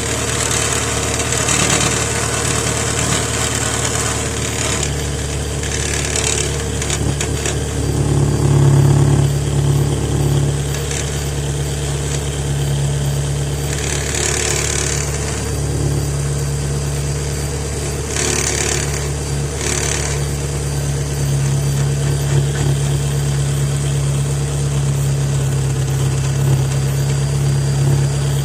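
Car engine idling steadily, heard at an exhaust pipe joint whose clamp has loosened so exhaust gas leaks through it. A few short hissing bursts stand out over the hum.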